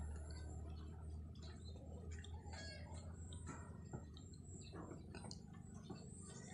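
Faint, scattered bird chirps and clicks over a low steady hum.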